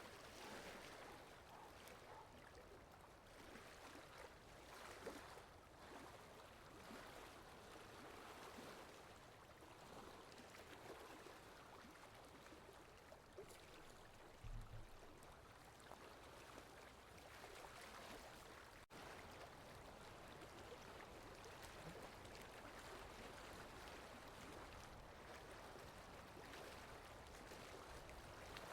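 Faint rain-in-the-forest ambience: a soft, even watery hiss. A brief low thump comes about halfway through, and the sound drops out for an instant about two-thirds of the way in.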